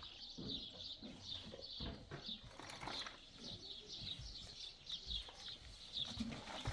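Small birds chirping: a steady run of short, high chirps, each sliding down in pitch, about two or three a second, faint, with a few soft knocks underneath.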